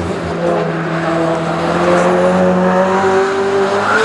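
Race car engine running hard under load, its pitch held high and rising slowly and steadily.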